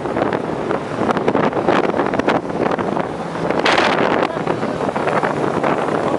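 Motorcycle engines running, with wind buffeting the microphone; a louder surge about four seconds in.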